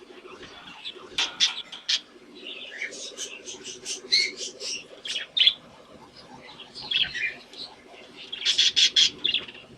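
Budgies chirping and warbling in quick clusters of sharp, high chirps, with a low, steady hum underneath.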